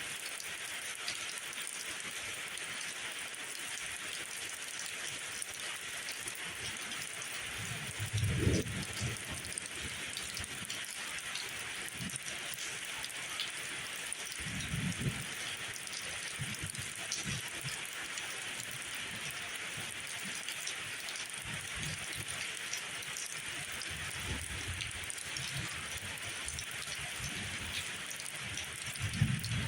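Steady rain falling, a constant hiss with scattered drop patter. A few brief low rumbles come through it: the strongest about eight seconds in, another around fifteen seconds, and one near the end.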